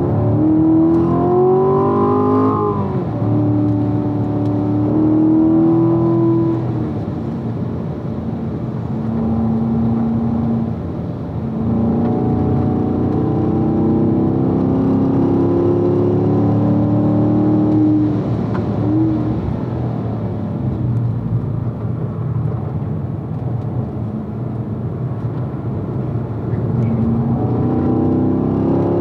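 2016 Corvette's V8 engine pulling hard through the gears, heard from inside the car: the pitch climbs and drops at an upshift about three seconds in, climbs again through the middle, then falls away as the car slows and a lower gear goes in, rising once more near the end.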